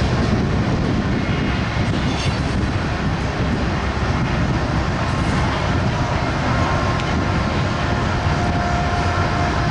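BNSF freight train's cars rolling past, a steady rumble and rush of wheels on rail, with a faint thin whine in the last few seconds.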